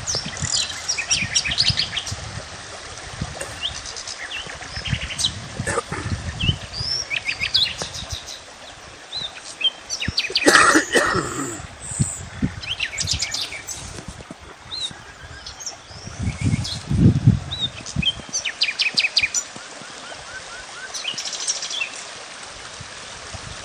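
Several small birds chirping and trilling, with many short, overlapping calls and quick rattling trills. A brief louder noise comes about ten seconds in.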